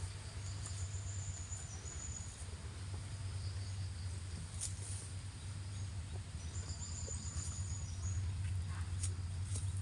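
Cow grazing in the open: a few short sharp crunches of grass being cropped over a steady low hum. A thin high-pitched insect call sounds twice, once early and once past the middle.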